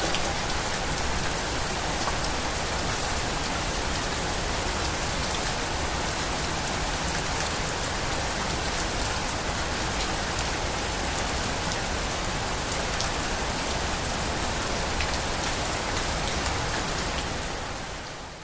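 Steady rain falling, a dense even hiss with scattered sharper drop ticks, fading out near the end.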